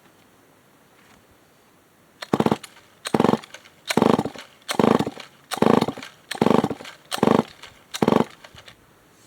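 Remington SL9 two-stroke chainsaw being pull-started: about two seconds in, eight quick pulls on the recoil starter, roughly one every 0.8 seconds, each cranking the engine briefly without it catching and running.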